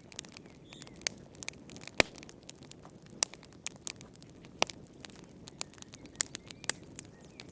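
Wood fire in a fireplace crackling, with irregular sharp pops over a low, steady rumble of burning; the loudest pop comes about two seconds in.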